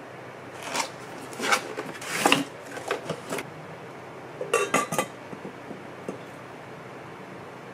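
Kitchenware being handled: a series of light knocks and clinks, with a short ringing clink of metal or ceramic about four and a half seconds in.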